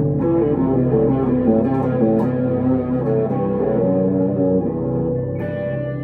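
1962 Gibson Les Paul Custom electric guitar played through a Two-Rock Emerald Pro tube amplifier: a melodic line of single notes over low held notes, with a chord struck about five and a half seconds in.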